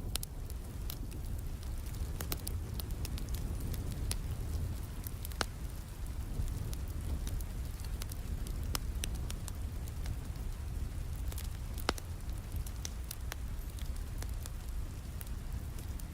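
Steady rain with a crackling wood fire: a low, even rumble of rain under scattered sharp crackles and pops, two of them louder, about five and twelve seconds in.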